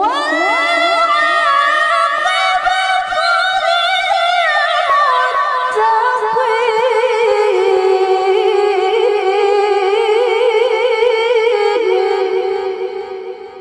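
A woman reciting the Quran in melodic tilawah style, unaccompanied: one long high phrase that rises sharply at the start, is held with wavering ornaments, slowly drifts lower and fades near the end.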